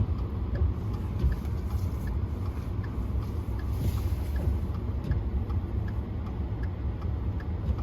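Steady low rumble of a car's road and engine noise heard from inside the cabin while driving on snowy roads, with faint ticking at an even pace.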